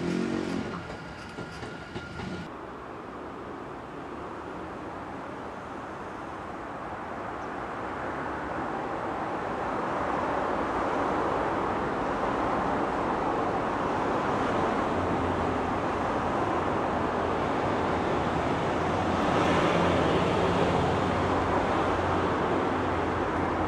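Japanese level-crossing warning bell ringing, cutting off suddenly about two seconds in. Then the steady rumble of Odakyu 60000-series MSE electric trains running through the station, growing louder, with a low motor hum in the second half.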